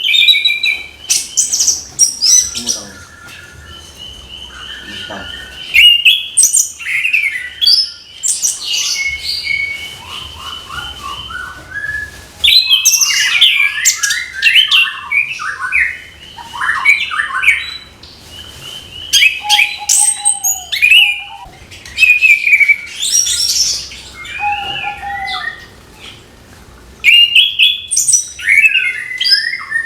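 Orange-headed thrush (anis kembang) singing a loud, varied song of quick whistled phrases, trills and chattering notes, delivered in bursts with short pauses between them.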